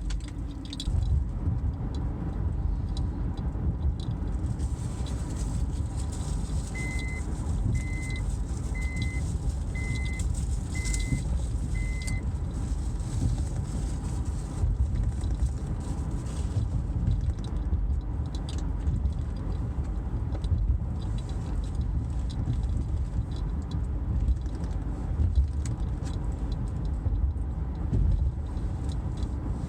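Car cabin road noise from a car being driven, a steady low rumble. About seven seconds in, an electronic beep sounds six times, about once a second.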